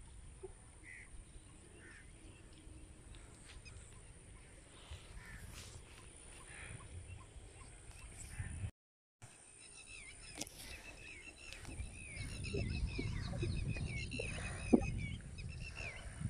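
Birds calling outdoors: a dense run of short chirping calls in the second half, over low wind rumble on the microphone. Before that there are only a few faint calls.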